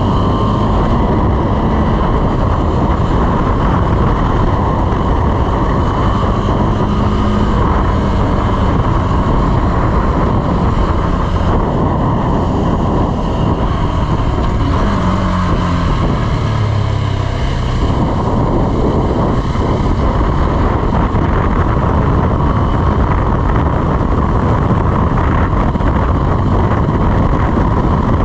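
KTM 390 Adventure's single-cylinder engine running under way, heavily mixed with wind rushing over the microphone. The engine note climbs and drops in pitch around the middle.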